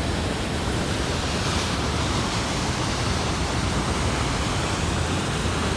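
Steady, even rush of falling and running water from a waterfall.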